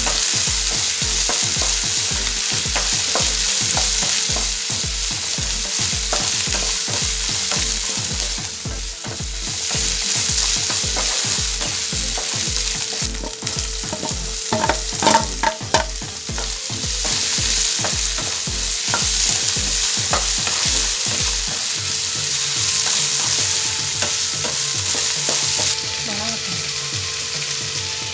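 Sliced onions and green chilli sizzling in oil in a nonstick frying pan while a spatula stirs and scrapes them. About halfway through, chopped tomatoes are tipped in with a few knocks, and the sizzling goes on. A low regular pulsing runs underneath and stops about three-quarters of the way through.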